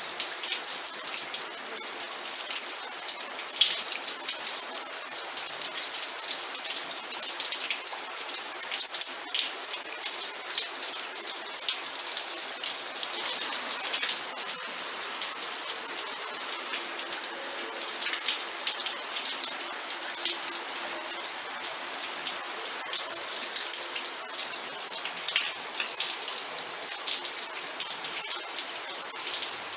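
Steady rain, with many individual drops ticking and pattering on a hard surface close by.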